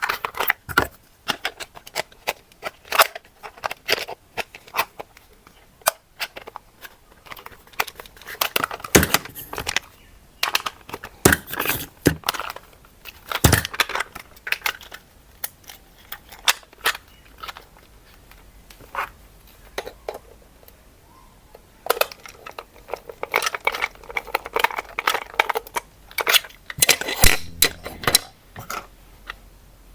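Toy packaging being handled during an unboxing: plastic and cardboard crackling and tearing, with many sharp clicks and snips, busiest in two stretches.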